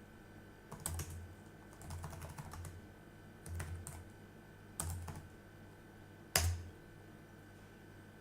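Computer keyboard typing in several short bursts of key clicks, with a single sharper key strike about six seconds in.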